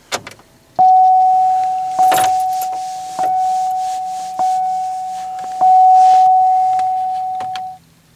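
Car keys jingling, then a dashboard warning chime in a 2008 Pontiac Grand Prix ringing five times, about once every second and a quarter, each ding fading before the next.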